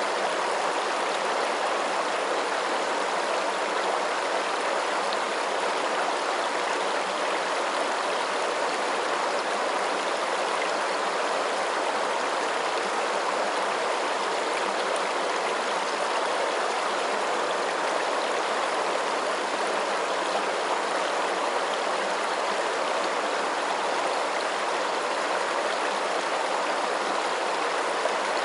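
Running water: a steady, even rush that holds the same level throughout.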